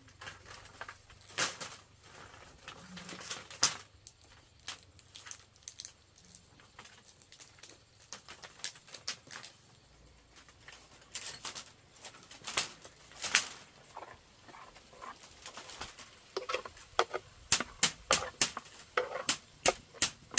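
Wood fire crackling, with sharp, irregular pops that come more often near the end.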